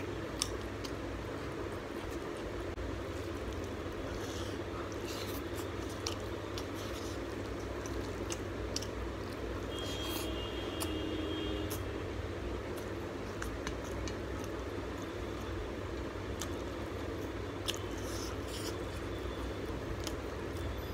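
Close-up mouth sounds of someone eating rice and prawn curry by hand: chewing with scattered wet lip smacks and clicks, over a steady low hum.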